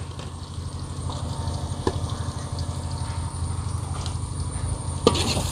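Ginger and green chillies frying in a large metal pot over a wood fire: a faint sizzle over a steady low rumble. A sharp knock comes about five seconds in, and the sizzle grows louder after it.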